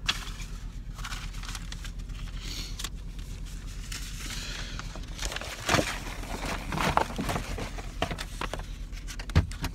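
Car engine idling, a low steady hum heard inside the cabin, which the driver takes for a slight misfire. Over it, paperwork rustles and things are handled, with a sharp knock about halfway through and another near the end.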